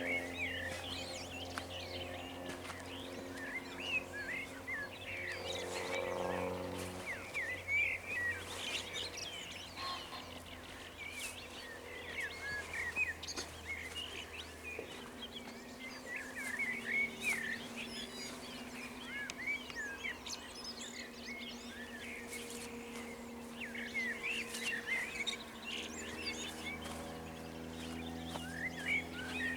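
Dawn chorus of many songbirds singing and chirping at once over meadows, with dense overlapping short calls and trills throughout.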